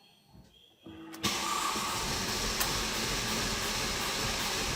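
Mercedes-Benz E280's starter cranking the engine steadily for about four seconds, starting about a second in and ending with a click near the end. The engine is slow to fire because air is still in the fuel system after the injectors were refitted.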